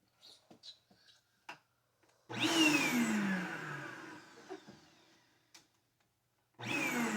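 Vacuum cleaner motor switched on in two short bursts, about two seconds in and again near the end. Each starts suddenly, and its whine falls in pitch and fades as the motor winds down. A few light clicks come before the first burst.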